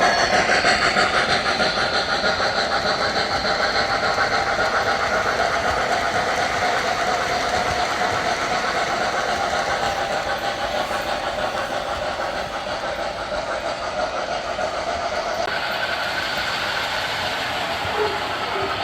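O-gauge three-rail model train, an MTH Pennsylvania Railroad K4s 4-6-2 steam locomotive pulling Madison passenger cars, running steadily around the track with a continuous rattling clatter of wheels on rail.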